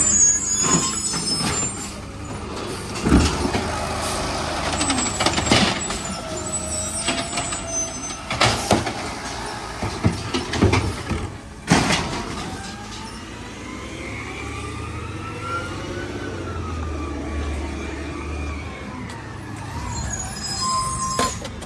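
Garbage truck engine running, with a string of loud metal bangs and clanks over the first half, then a whine that rises and falls.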